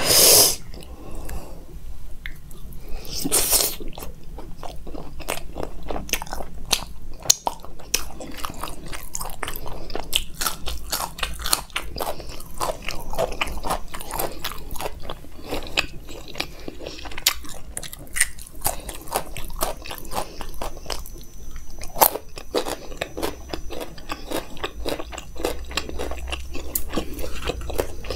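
A person chewing and biting close up, eating makki ki roti with sarson ka saag and raw radish, with many small mouth clicks.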